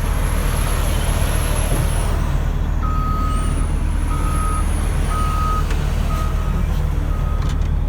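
Heavy earthmoving machine's diesel engine running steadily, with its reversing alarm sounding about three seconds in: a single-pitch beep roughly once a second, growing fainter toward the end.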